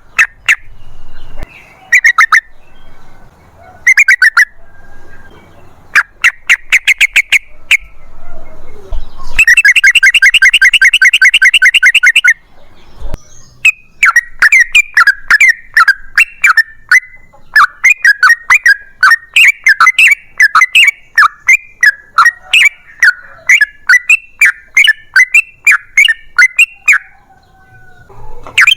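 Yellow-vented bulbul (trucukan) singing loud bursts of rapid, bubbling notes. Short phrases come first, then a fast trill, then a long rolling run of chattering notes lasting over ten seconds.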